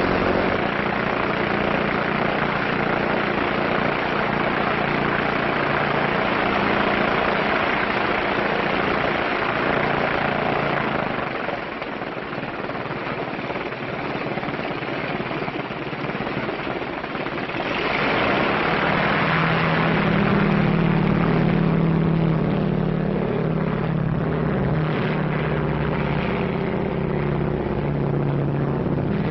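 Propeller airplane engine running steadily. It drops back a little about eleven seconds in and swells louder again around eighteen seconds.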